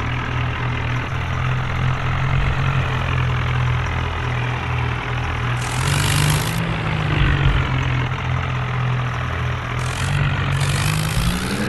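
John Deere tractor's diesel engine running steadily, its pitch rising briefly about six seconds in and climbing again near the end as it revs up, with short bursts of hiss.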